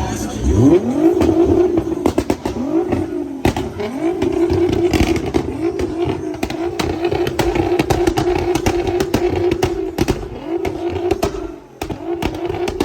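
A car engine revved up fast and held high on the rev limiter, rising again several times, with sharp crackles and pops from the exhaust. The loudness dips briefly near the end before the engine picks up again.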